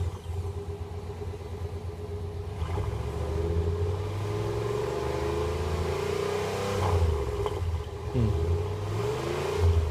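Car engine running and being revved through an exhaust fitted with a bolt-on turbo whistle tip, its pitch rising slowly a couple of times; the whistle tip adds little or no audible whistle.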